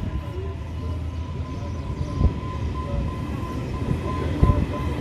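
Train at a station: a steady low rumble with a constant high-pitched whine over it, and a couple of dull knocks about two seconds in and near the end.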